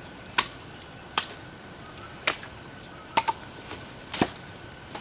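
Sharp chopping strikes, about one a second: five in all, the fourth a quick double.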